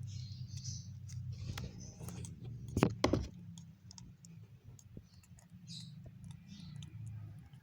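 Small clicks and taps of lovebird chicks being hand-fed, with short high squeaks scattered through and a steady low hum beneath; a louder knock comes about three seconds in.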